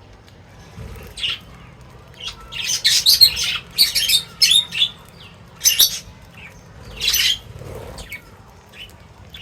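Birds calling in a string of short, high-pitched bursts, thickest in the middle of the stretch.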